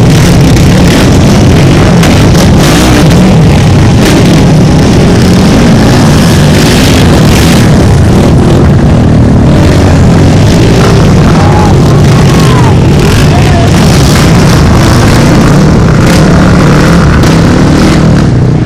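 A pack of ATV and dirt bike engines running and revving together at a race start, loud and unbroken.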